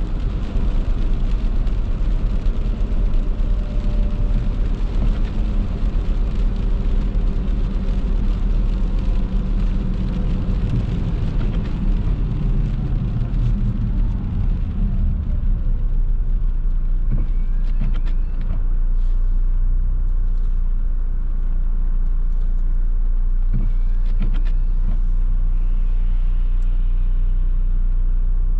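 A car driving on wet roads in the rain, heard from inside: steady road and tyre noise with a low rumble. The noise drops to a quieter, even level about halfway through, and a few light ticks come later on.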